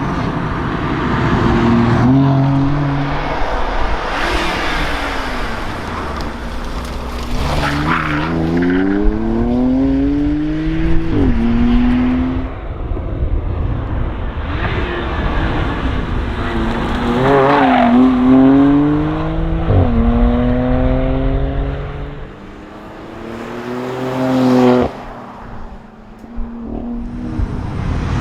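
BMW M2 Competition's twin-turbo straight-six engine driven hard, revving up through the gears with a sharp drop in pitch at each upshift. It also gives quick rev blips on downshifts. Tyre noise runs underneath throughout.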